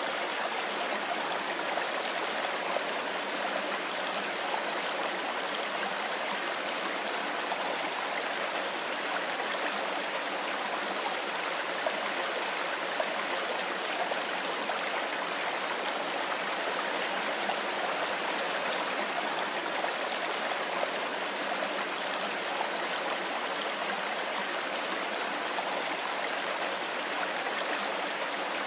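Mountain stream flowing over stones: a steady, even rush of water.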